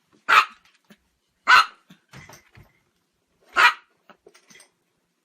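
A dog barking three times: single short, loud barks, about a second and two seconds apart.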